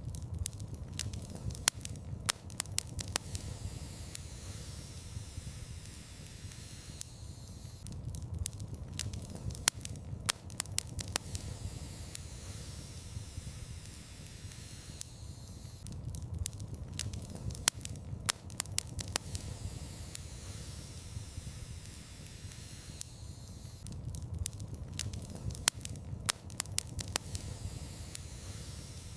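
Wood fire burning in a fireplace: a steady low rumble of flames with clusters of sharp crackles and pops from the burning logs. The same run of pops comes back about every eight seconds.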